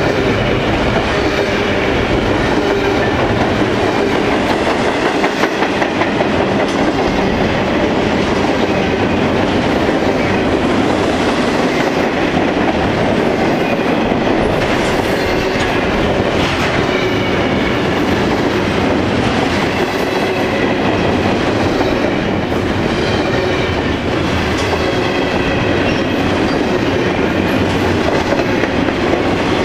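Double-stack intermodal freight cars rolling past at speed, a steady wheel-and-rail clatter with clickety-clack over the rail joints and a faint high wheel squeal.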